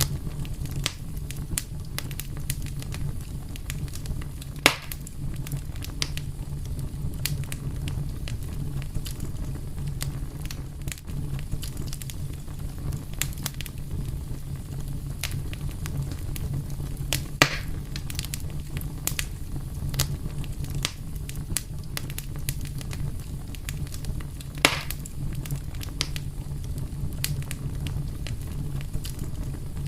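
Wood fire burning with a steady low rumble and frequent small crackles, and three louder pops about 4, 17 and 24 seconds in.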